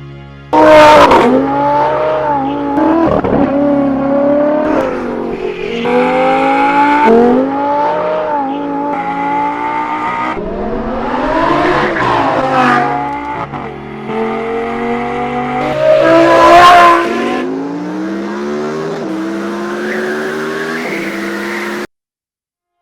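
Audi R8 GT's V10 with a Kline Innovation race exhaust, accelerating hard through the gears: the engine note climbs, drops back at each upshift, and climbs again, with two loud sharp peaks. It starts suddenly and cuts off abruptly near the end.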